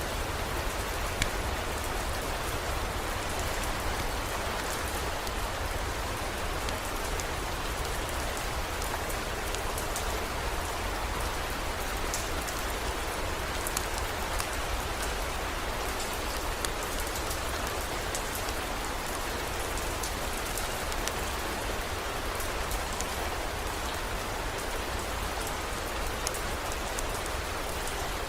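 Heavy rain falling steadily, with scattered sharp drop ticks and a low steady rumble underneath.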